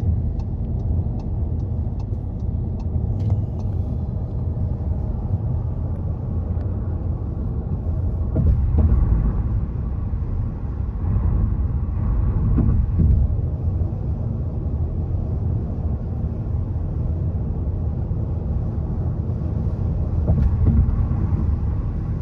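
Steady low rumble of road and tyre noise inside a car cruising on a highway. A faint run of light, evenly spaced ticks sounds in the first few seconds.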